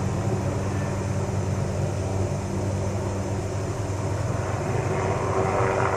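Steady drone of a helicopter working at a distance, hovering with a suspended saw that trims trees along power lines.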